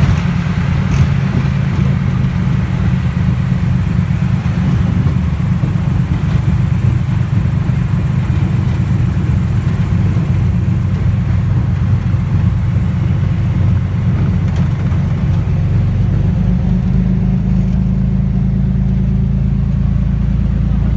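T-34 Mentor's six-cylinder piston engine and propeller running steadily, with a change in the engine note about fifteen seconds in.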